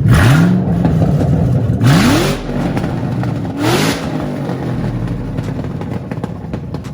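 Shelby GT500's supercharged V8 revved three times through an exhaust with gutted catalytic converters. The first rev rises and is held briefly, and the next two are quicker, sharper blips, each with a loud rasp, before it drops back to a rumbling idle.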